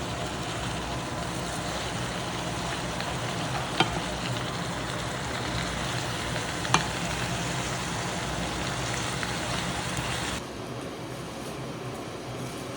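Peppers sizzling as they fry, a steady hiss with two sharp clicks. The sizzle drops away suddenly near the end.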